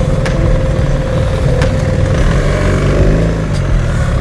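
BMW R 1300 GS boxer-twin engine running under way with steady wind and road rush; the engine note rises about three seconds in as the bike picks up speed.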